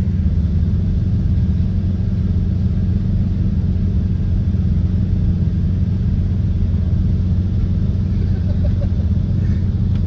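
Nissan 350Z's V6 engine running at a steady, even low pitch, heard from inside the car's cabin, with no revving.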